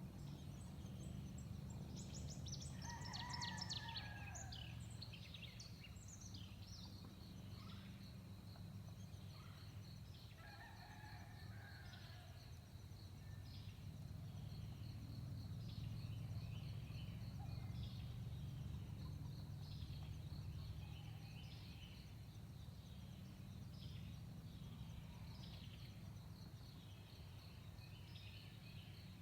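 Distant, steady low rumble of a Boeing C-17A Globemaster III's four turbofan engines after takeoff, swelling and easing, with birds chirping and calling over it.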